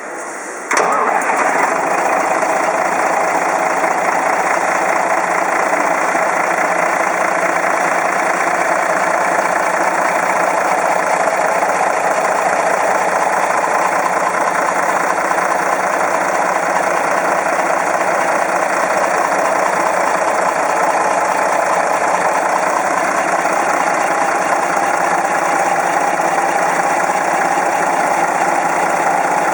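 Scania LS110S truck's diesel engine catching about a second in, then running steadily at idle.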